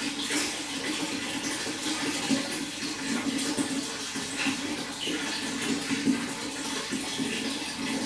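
Running water flowing and splashing steadily, with small irregular splashes on top of a continuous rush.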